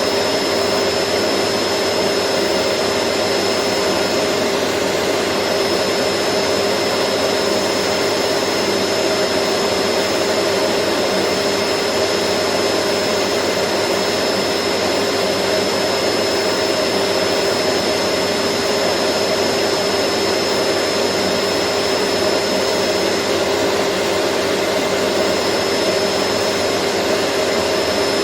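Vacuum cleaner motor running steadily: a constant rushing hiss with a steady hum and a thin high whine, its pitch and level unchanging.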